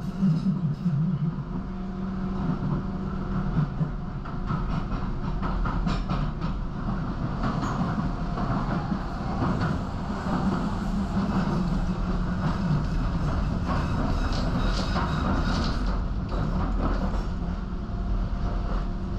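Docklands Light Railway train running between stations, heard from inside the carriage: a steady rumble of wheels on the track with scattered clicks from the rail joints.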